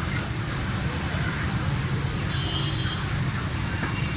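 Steady low rumble of background street noise, traffic-like, with no distinct strikes.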